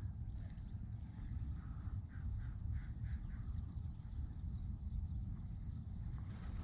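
Birds chirping here and there, over a steady low rumble.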